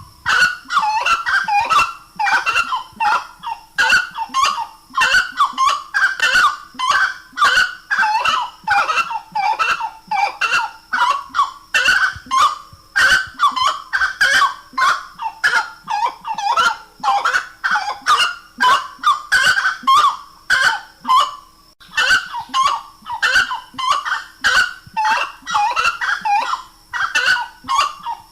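Grey-cowled wood-rail (saracura-três-potes) calling: a loud, rapid, unbroken series of repeated notes, about three a second, with one short break about three quarters of the way through.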